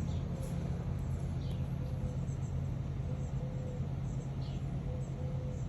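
A steady low hum with a few short, falling bird chirps over it.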